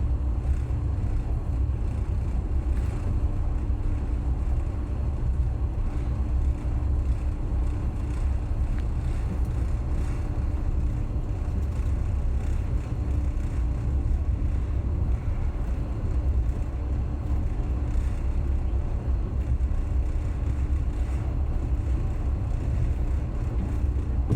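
Passenger train running at speed: a steady low rumble of wheels on rail with a faint steady hum.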